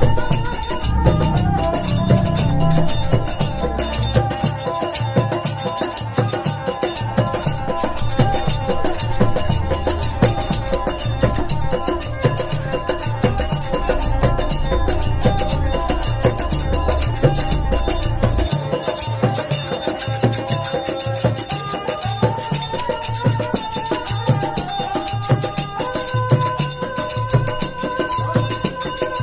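Rajasthani folk instrumental music led by the kamaicha, a bowed string instrument, over a steady rhythm of hand percussion and jingles. A deep bass drone drops out about two-thirds of the way through, and near the end a new held note comes in.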